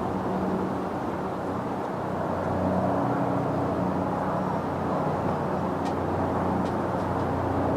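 Steady engine drone: a constant low hum with a few held tones under a rushing noise, unchanging throughout.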